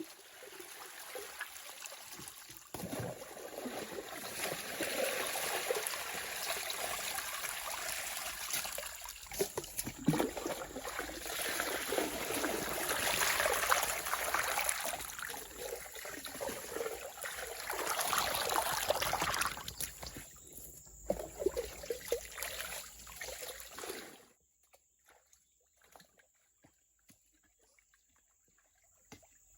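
Water running and trickling, uneven in loudness. It cuts off abruptly about three-quarters of the way through, leaving near silence with faint scattered ticks.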